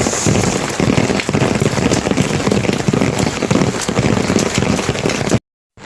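Heavy rain pouring down, a dense and steady patter of many drops, breaking off abruptly near the end.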